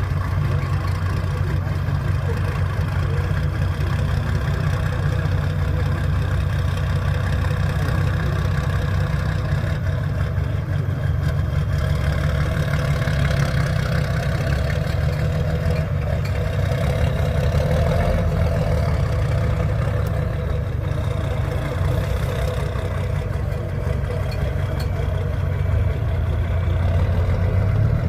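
Heavy six-wheel-drive trial truck's engine running steadily, with its level rising slightly near the end.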